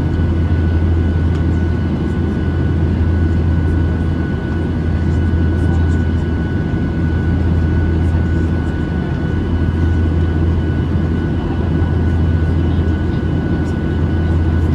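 Boeing 737-800 passenger cabin in flight: the steady, even drone of its CFM56-7B engines and airflow, deep and unchanging, with a thin steady whine running above it.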